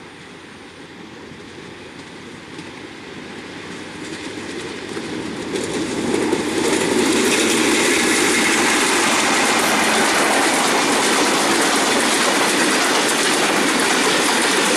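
Diesel-hauled passenger train approaching, growing steadily louder over about seven seconds, then its coaches running close past with a steady, loud rush of wheels on the rails.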